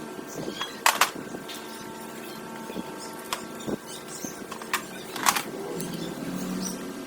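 A handful of sharp knocks and clicks over a steady hum: two close together about a second in, one midway, and a louder one a little after five seconds.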